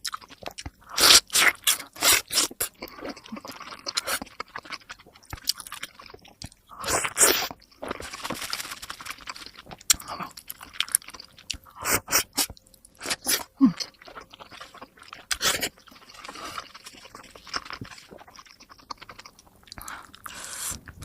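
Close-miked eating of momo dumplings: biting and chewing with wet, crunchy mouth sounds in irregular bursts, played back at double speed.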